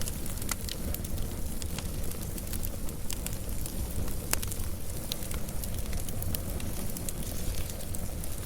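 Wood fire crackling: a steady low rumble of flames with scattered sharp pops and snaps.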